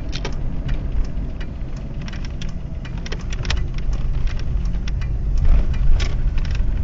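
A car driving, heard from inside the cabin: a steady low engine and road drone with irregular light clicks and rattles over it.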